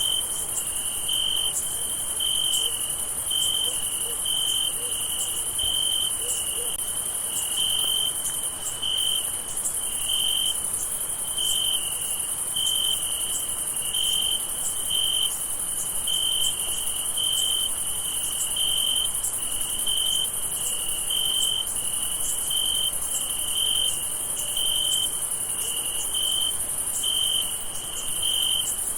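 Crickets chirping at night in an even rhythm, a little more than one chirp a second, over a continuous high-pitched insect trill.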